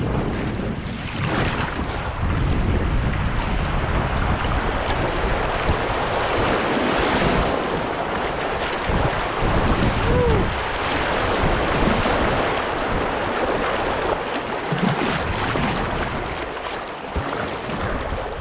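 Wind buffeting the microphone over the steady rush of moving river water.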